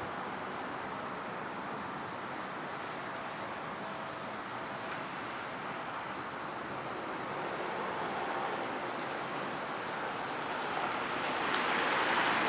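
1993 Nissan Cedric GT being driven: a steady rush of tyre and wind noise, growing louder near the end as the engine note comes through.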